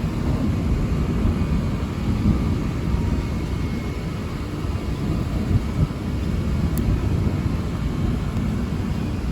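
Thunder rolling in a long, steady low rumble during a severe thunderstorm.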